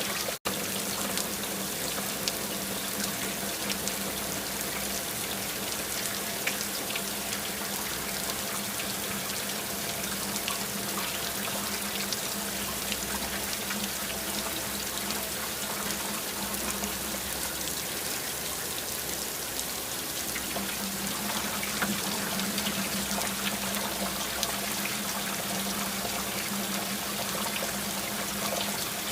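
Steady rain falling, many separate drops ticking over a steady low hum. The sound drops out for an instant just after the start.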